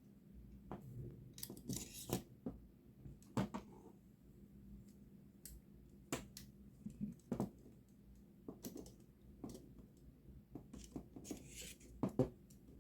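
Titanium frame rods and sleeve tubes of a wood stove being fitted together by hand: irregular light metallic clicks and knocks, with a couple of brief scraping slides of metal on metal.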